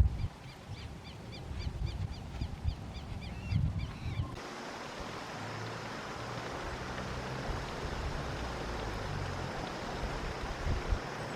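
Brazilian teal calling: a quick series of short, high whistled notes, about four to five a second, over low rumbling wind on the microphone. About four seconds in the calls stop at a cut, and a steady rushing hiss with a low hum takes over.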